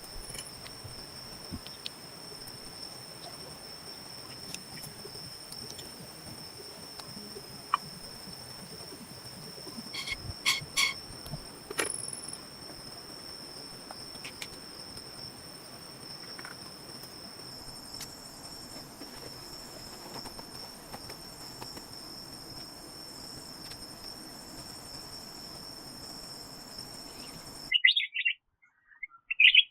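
Insects trilling steadily at two high pitches over a faint outdoor hiss, with a few sharp clicks about ten seconds in. Near the end the trilling cuts off abruptly and a few short bird chirps follow.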